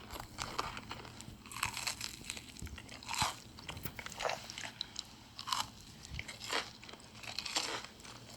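Close-miked mukbang eating: a crunchy snack being bitten and chewed, with irregular crisp crunches one or two a second.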